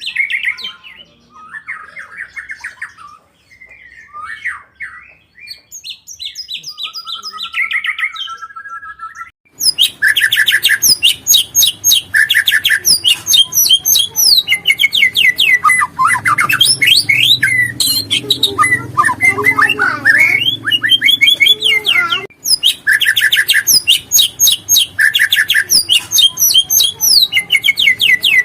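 White-rumped shama (murai batu) singing in fast, varied phrases of whistles, trills and chattering notes. About nine and a half seconds in, the song becomes much louder and denser.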